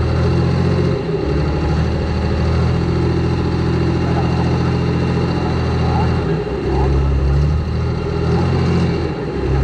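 Large diesel tractor engine running steadily, its note dropping briefly a few times.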